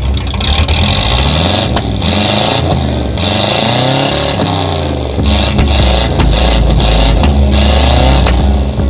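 Chevrolet El Camino's V8 engine running, its pitch rising and falling as it is revved.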